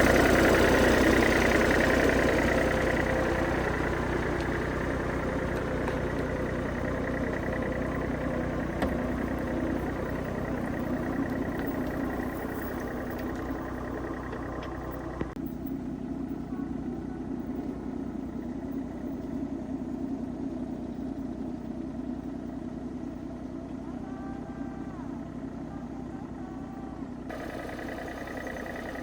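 An engine running steadily, loudest at first and easing lower over the first several seconds.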